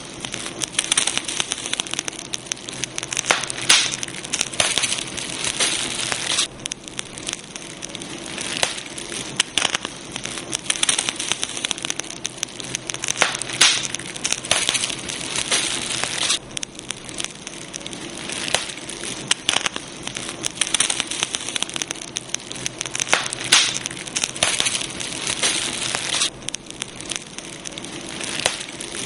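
Campfire crackling: a steady hiss under many irregular sharp pops and snaps of burning wood. The background hiss changes abruptly every ten seconds or so.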